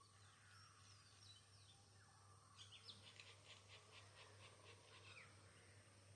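Faint songbird calls: a few scattered high chirps, then a quick run of about ten short notes, roughly four a second, lasting about two and a half seconds.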